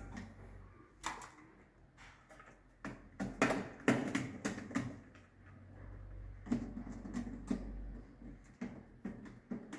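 Irregular plastic-and-metal clicks and knocks of miniature circuit breakers being handled and fitted into a distribution board, with a busier run of clatter in the middle.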